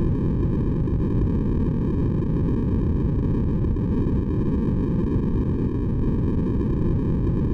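Steady sleep white noise, a continuous deep rushing hiss that is heaviest in the low end and does not change.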